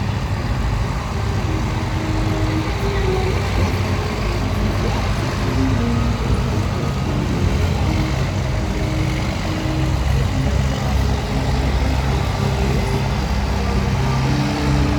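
Heavy military trucks driving past, engines running with a steady, loud, low-pitched noise.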